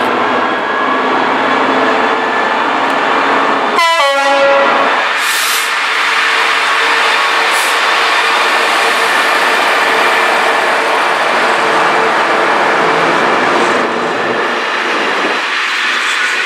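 Class 66 diesel-electric freight locomotive passing close at speed, its engine running. About four seconds in, a brief horn sounds, falling in pitch as the locomotive goes by. This gives way to the steady rumble and rattle of intermodal container wagons rolling past on the rails.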